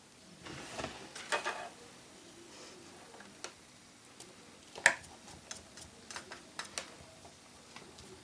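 Small metallic clicks and taps of a precision screwdriver and tools against an iPhone 4's internal frame as its screws are driven back in during reassembly. A brief scraping rustle comes about a second in, then a sharper click about five seconds in, followed by a run of lighter ticks.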